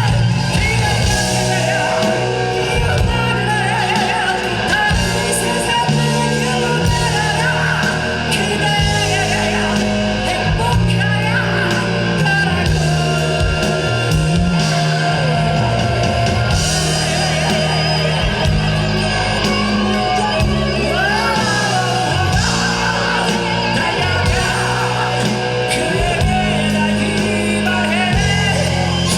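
Live rock band playing loudly, with a high wailing vocal line over a heavy band backing.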